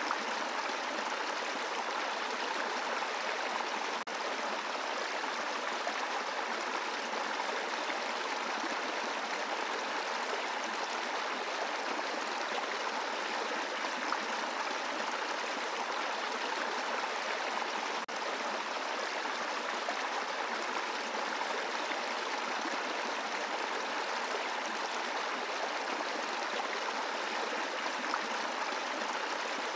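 A small brook flowing over a bed of rocks: a steady rushing and babbling of water.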